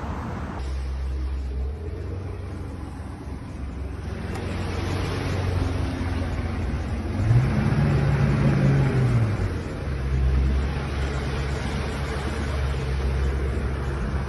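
An engine running steadily, revving up and back down about seven to ten seconds in, with wind or water noise.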